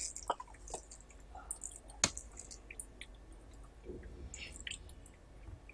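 Wet chewing and mouth sounds of a person eating rice with curry: scattered soft smacks and squishes, with one sharper click about two seconds in.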